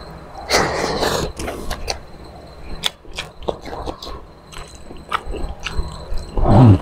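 Close-miked wet chewing, biting and lip-smacking on saucy squid adobo eaten by hand, with scattered small clicks. A short voiced sound comes just at the end.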